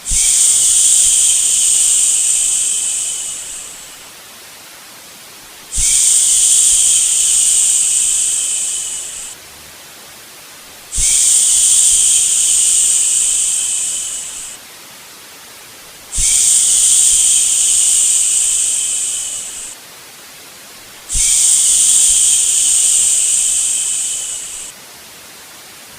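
Repeated long 'shhh' shushing sounds, five in a row about every five seconds, each held for about three seconds and trailing off, over a steady soft white-noise hiss.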